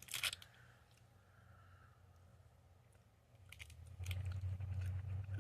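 Soft blackcurrant and melon jelly candies being bitten and chewed, opening with a short crackle of the wrapper and going on as faint mouth clicks. A steady low hum comes in about four seconds in.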